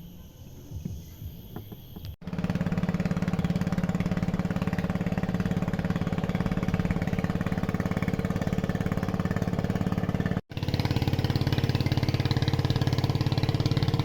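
A small engine running steadily with a fast even pulse, starting abruptly a couple of seconds in after faint outdoor ambience, with a brief gap about ten seconds in.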